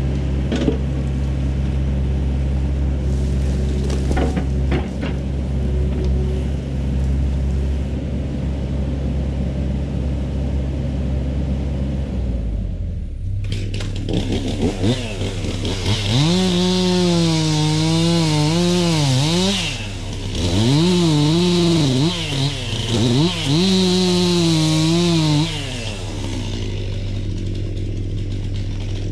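A diesel excavator engine running at a steady idle, then a chainsaw takes over: it revs up and down in several bursts as it cuts through wood, dropping back to idle between cuts.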